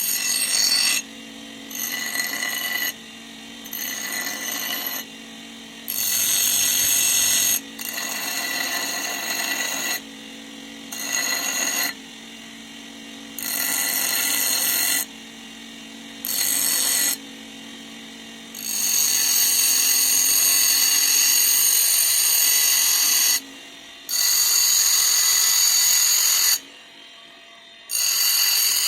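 Bench grinder running steadily, with steel pressed against the wheel in repeated grinding passes of one to four seconds each. Each pass adds a loud, high-pitched screech, and the longest pass comes about two-thirds of the way through.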